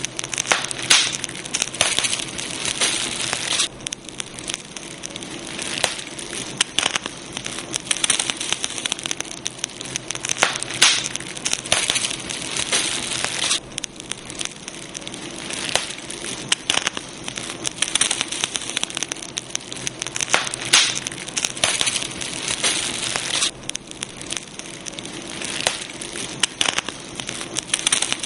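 Wood fire burning, with a steady hiss and frequent sharp crackles and pops of burning wood.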